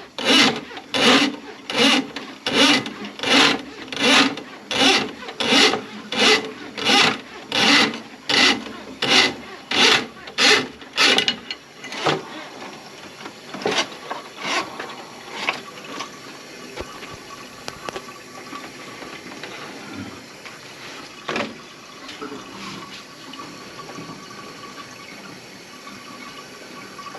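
Rhythmic rubbing strokes from working a tool on a clogged kitchen sink drain, about one and a half strokes a second. The strokes stop about twelve seconds in, leaving faint background noise with a few scattered clicks.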